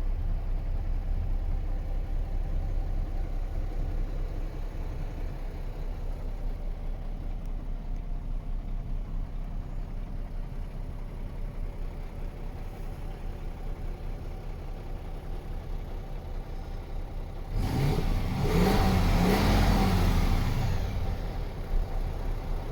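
MAN TGX truck's 12.4-litre straight-six diesel idling steadily, then revved up about 18 seconds in, its pitch rising and falling twice before it settles back to idle.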